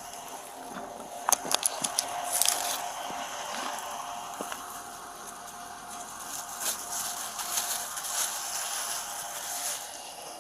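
Fabric rustling and scraping from a hands-on pat-down search of a person's clothing and pockets, heard close up. About a second in there is a quick run of sharp clicks and scratches, and rustling comes back in the last few seconds.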